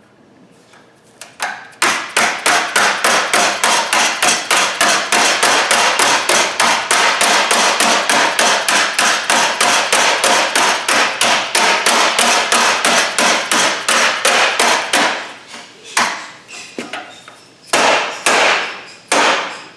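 A hammer pounding sheet steel over an edge to form a curved flange. After a short pause, a fast, even run of metal-on-metal blows at about four a second goes on for some thirteen seconds, then a few slower, separate blows near the end.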